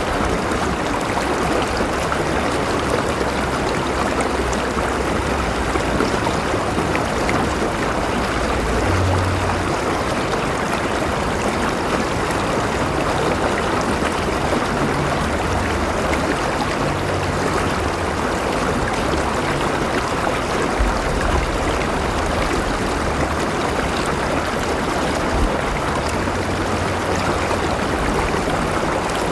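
A river flowing steadily over rocks: a continuous rushing and babbling of water, with a low rumble underneath.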